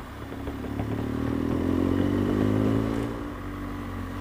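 BMW GS Adventure motorcycle's twin-cylinder engine pulling away after a turn, rising in pitch as it accelerates, then easing off about three seconds in.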